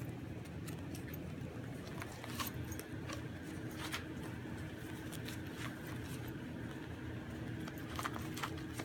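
Puppies moving about: scattered light scratches and clicks, several a second at times, over a steady low hum.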